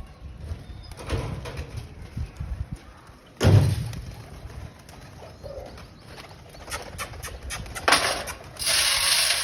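Pigeons cooing, with a loud thump about three and a half seconds in, a few clicks, and a burst of rustling noise near the end.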